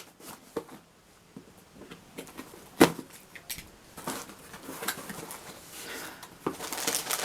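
Cardboard box and packaging being opened and handled by hand: scattered clicks and rustling, with one sharp snap about three seconds in and denser rustling near the end.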